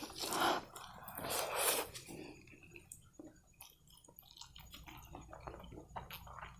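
A person chewing a mouthful of spicy Korean noodles, with small wet clicks and smacks. Two breathy puffs in the first two seconds.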